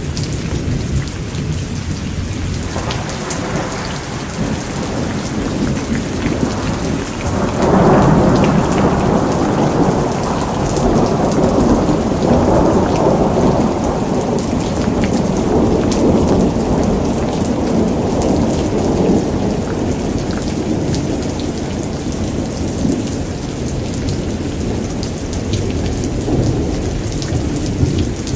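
Steady rain with a long roll of thunder that swells a few seconds in, peaks about a third of the way through and slowly dies away.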